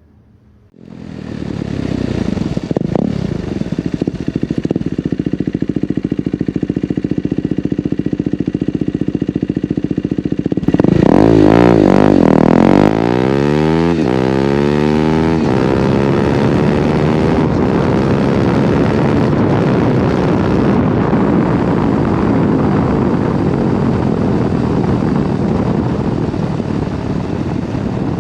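KTM 390 Duke's single-cylinder engine running through its exhaust: a steady note comes in about a second in, then about ten seconds later it gets louder with a sweeping change in pitch, as when revved or moving, before settling into a steady run again.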